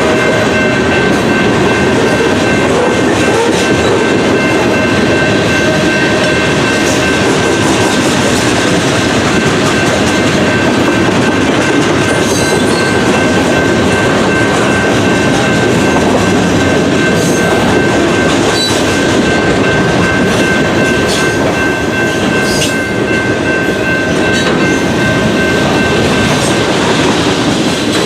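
A train's cars rolling past on the rails in a steady, loud clatter, with a high ringing tone held throughout and scattered sharp clicks from the wheels.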